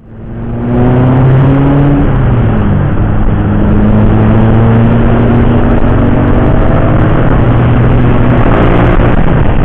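A motor vehicle engine running hard under a loud rushing noise, its pitch stepping a couple of times in the first seconds and then climbing slowly.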